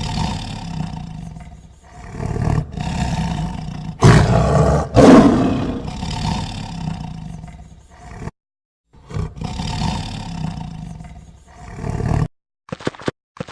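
Tiger roaring and growling, a series of long, rough roars with short pauses between them, loudest about four to six seconds in and breaking off briefly about eight seconds in.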